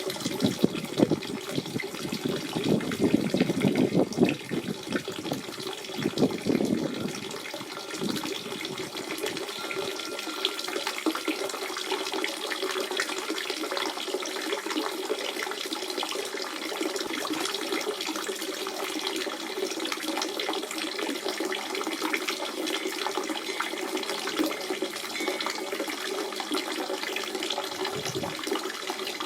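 Natural spring water running and splashing in a steady stream, with louder, deeper gurgles for the first several seconds before the flow evens out.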